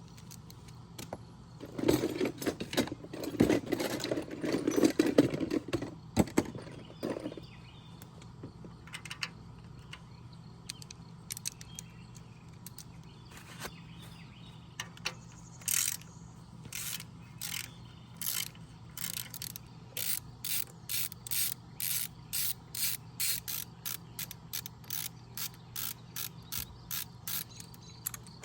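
Metal tools and parts clattering, then a hand ratchet wrench worked in short strokes, its clicking coming in quick bursts about two a second, over a steady low hum.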